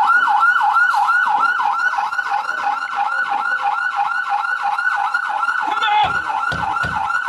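Police car siren in a fast yelp, its tone sweeping up and down about three to four times a second. A few low thuds come near the end.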